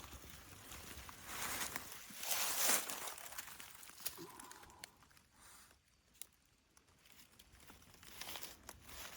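Rustling and crinkling, like movement through dry leaves or undergrowth, loudest about two to three seconds in, with scattered light clicks.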